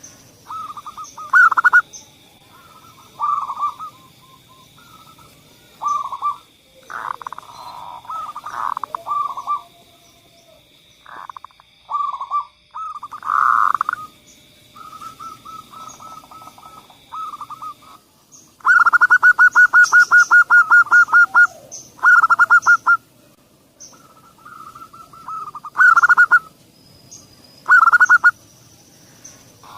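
Zebra doves (perkutut) cooing: repeated short rolling coo phrases, with a fast even run of about fourteen notes about two-thirds of the way through. A faint steady high whine sounds behind them until a little past halfway.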